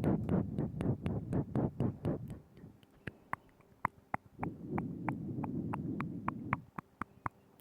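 Close-miked wet mouth sounds: a quick run of tongue clicks and lip smacks, several a second, over a moist, breathy rumble that comes and goes in two stretches.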